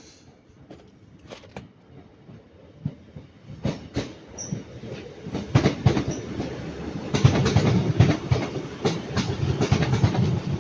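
A British Rail Class 150 diesel multiple unit passing, its wheels clicking over the rail joints. The clicks grow louder as it nears, and a low rumble builds up about two-thirds of the way in.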